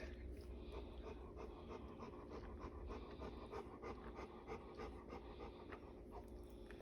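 Female Cane Corso panting rapidly in labour, the quick, even breathing of a whelping dog between pushes.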